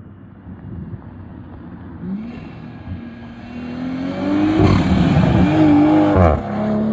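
BMW M340i's turbocharged 3.0-litre straight-six, fitted with a cold air intake, accelerating hard. The engine note and the turbo and intake hiss climb from about two seconds in and are loudest from about four seconds in, with the pitch sweeping up and down. The sound drops off suddenly near the end.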